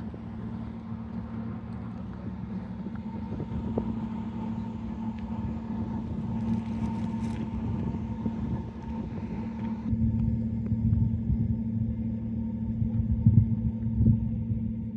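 A steady low mechanical hum, engine-like, with rumbling noise underneath.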